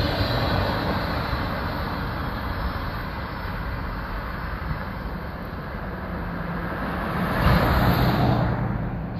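Rolling noise of a double-stack intermodal freight train's last cars passing and fading as the train moves away, with a car passing on the adjacent road about seven and a half seconds in.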